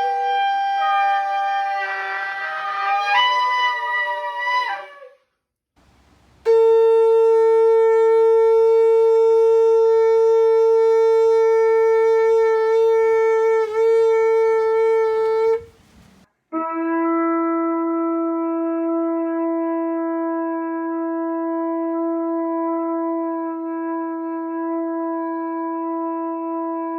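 Shofar (ram's-horn trumpet) blasts. A wavering note with pitch steps ends about five seconds in. Then comes one long steady blast of about nine seconds with a brief catch near its end, and after a short gap a second long steady blast at a lower pitch, lasting over ten seconds.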